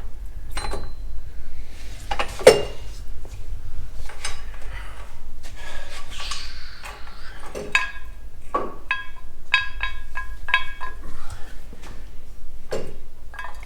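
Metal parts being handled and set down, clinking and clanking. There are a series of sharp knocks with a short ring, the loudest about two and a half seconds in, and a quick run of clinks in the second half.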